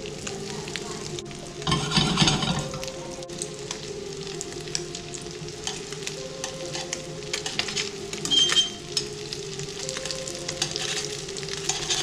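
Crumbed tailor fish fillets sizzling and crackling as they shallow-fry in a pan of hot oil. The crackle is steady, with a louder surge about two seconds in.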